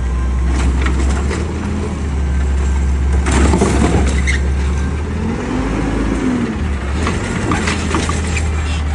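Peterbilt 520 garbage truck running steadily with a deep engine rumble. A short clatter comes about three and a half seconds in, and a tone rises and falls near the middle.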